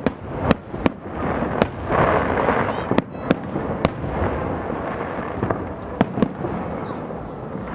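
Fireworks display: about a dozen sharp bangs at uneven intervals over a steady crackle of bursting shells, the crackle swelling loudest about two seconds in.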